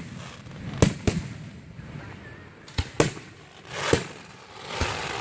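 Aerial fireworks bursting: about six sharp booms, some in quick pairs, with a swelling hiss near the end.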